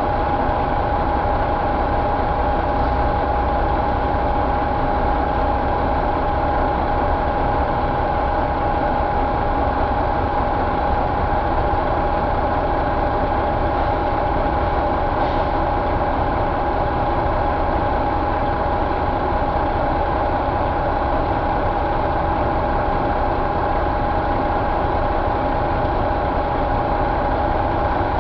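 Detroit Diesel Series 60 12.7-litre inline-six diesel engine idling steadily, with a steady whine over the idle.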